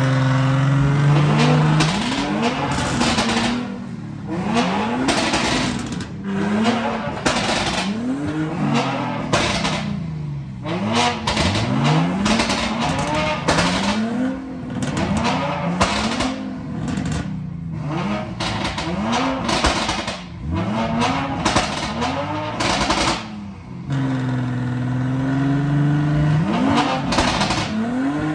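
A car's engine revved hard over and over, its pitch rising and falling about every second and a half to two seconds, held steady at high revs near the start and again near the end, with tyre squeal.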